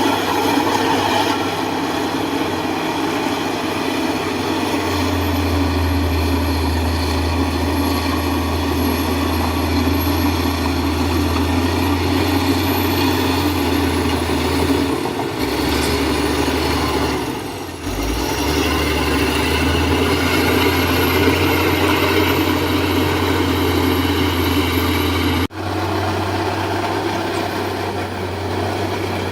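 Heavy diesel earthmoving machinery running steadily: a low engine drone under a loud mechanical clatter and hiss. The drone grows stronger about five seconds in, dips briefly about two-thirds of the way through, and breaks off sharply for an instant near the end before carrying on.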